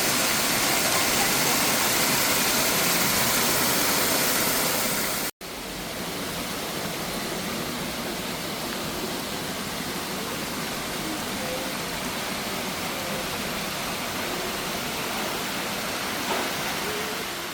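Waterfall rushing in a steady, even wash of splashing water. About five seconds in it cuts off abruptly, then goes on noticeably quieter.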